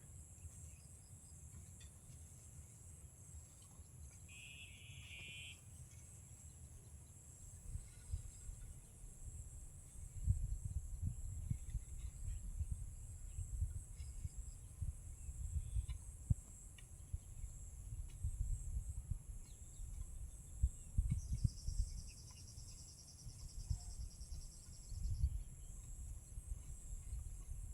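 Steady high-pitched chorus of crickets or other insects, with a short buzzy call about five seconds in and a longer trill near the end. Low thumps and rumbles come in from about ten seconds in.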